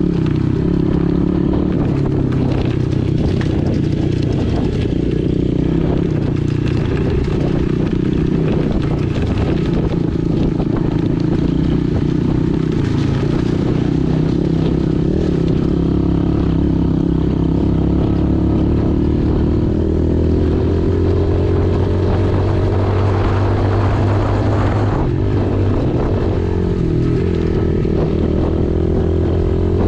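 Pit bike's small single-cylinder engine running steadily while riding, its note shifting a little with the throttle.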